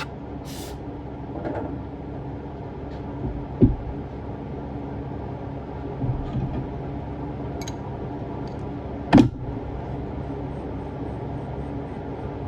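Steady low machine hum with a few short knocks, the two loudest about three and a half and nine seconds in.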